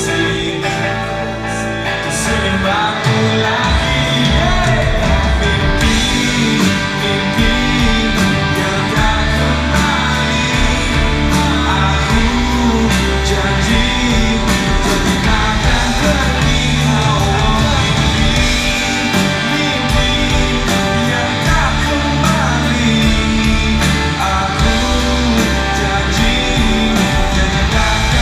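Rock song with singing over electric guitar and drums, played at a steady beat.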